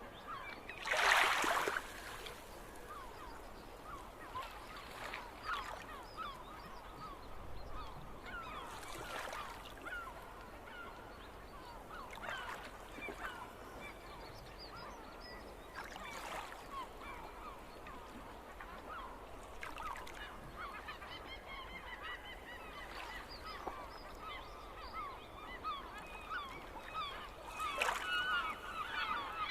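A flock of gulls calling: many short overlapping calls in a steady chatter, with one loud call about a second in and a cluster of louder calls near the end.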